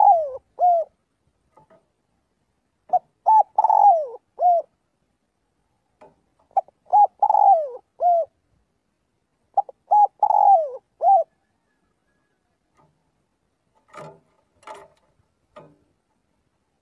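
Spotted dove cooing: a phrase of a few short coos ending in a longer falling note, repeated about every three seconds, three full times. A few faint clicks follow near the end.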